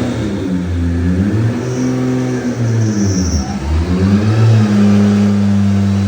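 Turbocharged Toyota 2JZ VVT-i straight-six in a drift car being revved. The revs rise and fall several times, with a faint high whistle over the middle revs, then hold at a steady note from about four and a half seconds in.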